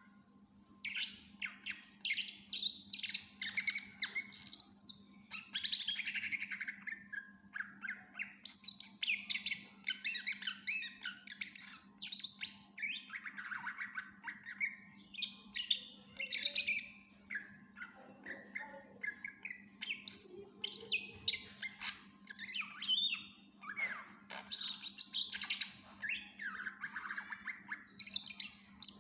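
Green leafbird (cucak ijo) singing a long, rapid, varied song full of mimicked calls of other birds, starting about a second in, over a steady low hum.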